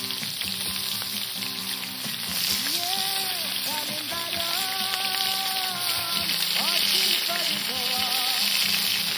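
Chicken sausages, potato chunks and onion sizzling steadily in oil in a large pan over a wood fire, with music playing over it.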